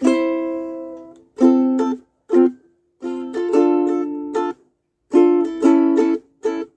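Music: chords strummed on a small plucked string instrument, in short phrases broken by brief silences.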